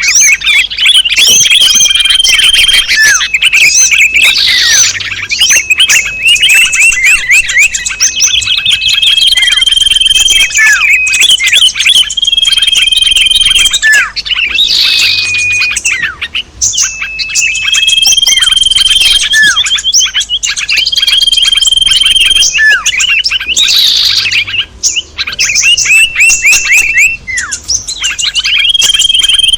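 Bird-lure recording of many small songbirds calling over one another: dense chirps, rapid trills and held whistles, played loud, with the mix repeating in a loop of about ten seconds.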